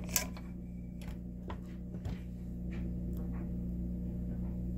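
A steady low hum with a few light metallic clicks and knocks as the spring-loaded oven door hinge is worked by hand; the sharpest click comes just after the start.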